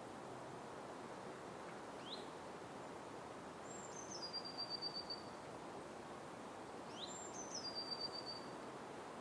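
Steady forest background noise with a bird calling twice, about five seconds apart. Each call is a short rising note, then a high note that steps down and holds with a fast pulsing.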